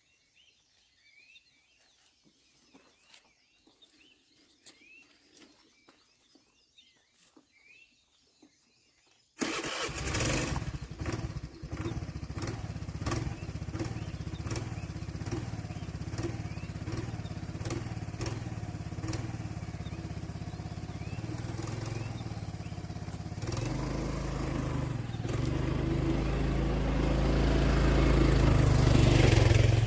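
Faint birdsong, then suddenly a motorcycle engine running, steady and growing louder toward the end.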